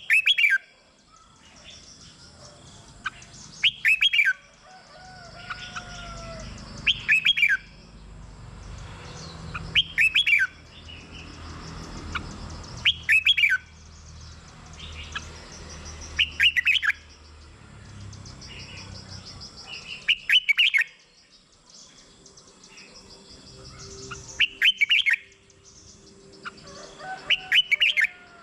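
Red-whiskered bulbul singing short, loud, whistled song phrases, about nine of them, one every three seconds or so, with fainter chirps in between.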